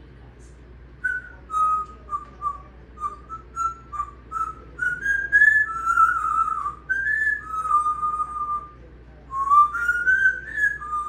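African grey parrot whistling a tune: a string of short whistled notes starting about a second in, running into longer held and sliding notes, a brief pause about three quarters of the way through, then more notes.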